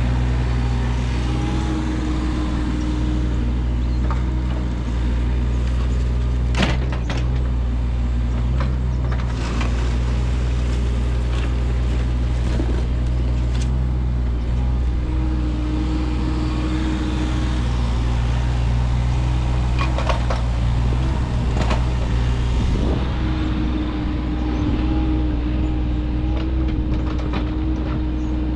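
An engine running steadily, with a higher whine that comes and goes a few times and occasional sharp clicks.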